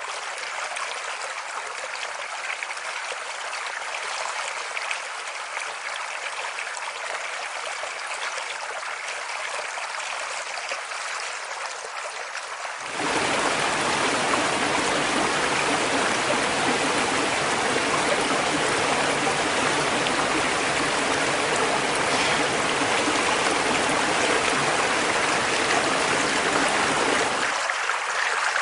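Running water of a stream, a steady rushing splash. About halfway through it cuts abruptly to a louder, deeper rush of water, which drops back to the lighter sound near the end.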